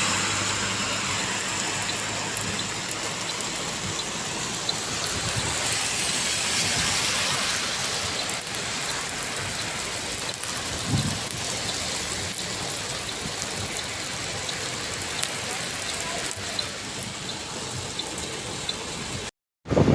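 Heavy rain falling: a steady hiss dotted with many small drop hits. It cuts out for a moment near the end.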